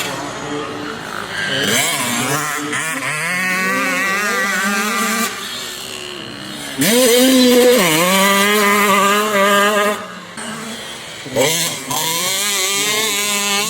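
Vintage motocross bike engines racing on the track, revving up and down in pitch as riders work the throttle and gears. One bike gets loudest about seven seconds in, with a quick dip in pitch, and its sound drops away abruptly before another engine rises.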